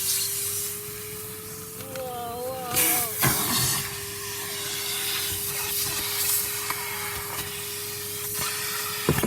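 Vacuum cleaner running with a steady whine and airflow hiss as it sucks at the car's interior, with a couple of knocks of the nozzle against the trim.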